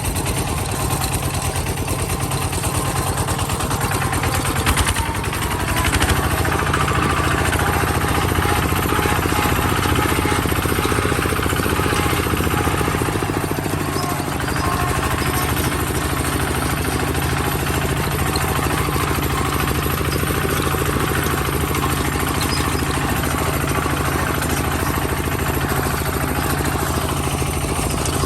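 A tractor-type machine's engine running steadily with a clattering knock. It gets louder about six seconds in.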